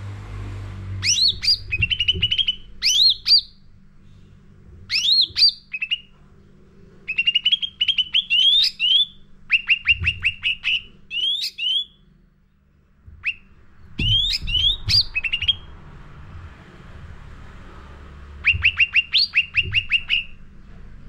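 A cucak ranting songbird singing a loud, lively song. Its phrases are fast runs of sharp chirps and rising whistles, broken by short pauses. A faint low hum lies underneath.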